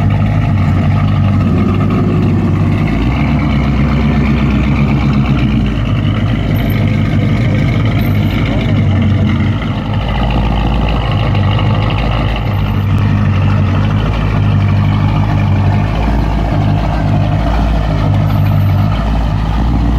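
Muscle car V8 engine idling steadily, with no revving, and people talking over it.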